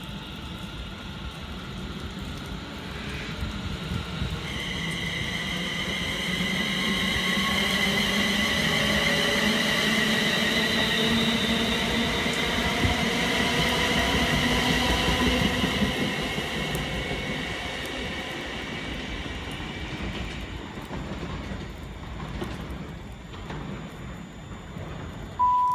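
A train moving through the station: its rumble swells to a peak in the middle and then fades. A high, wavering squeal sits over it for much of that time.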